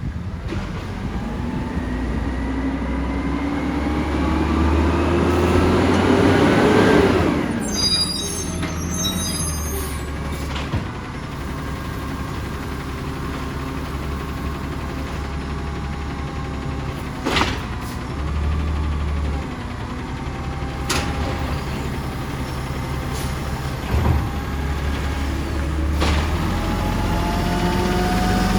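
Side-loader garbage truck at work. Its engine rises in pitch for about seven seconds and then drops back, and it then runs steadily, with several sharp clanks and hisses spread through the rest of the stretch.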